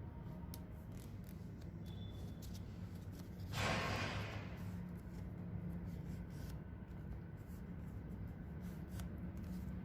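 A sheet of paper being folded and creased by hand, with faint crinkles and one louder swipe of paper about three and a half seconds in, over a steady low hum.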